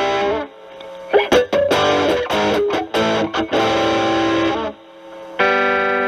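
Stratocaster with single-coil pickups played through a Proco RAT2 stacked with an Ibanez TS9 into a Marshall Valvestate amp, the Rat's distortion at 2 o'clock and the guitar's volume knob rolled back so the drive cleans up. Short runs of picked notes with brief pauses, then a chord struck about five seconds in and left ringing.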